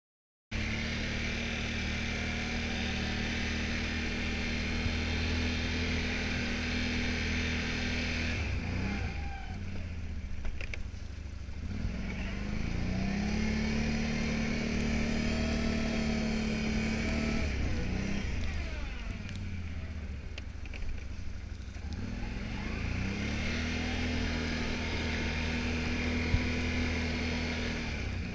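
Can-Am 570 XT ATV engine running at steady revs. The revs drop off twice and climb back up.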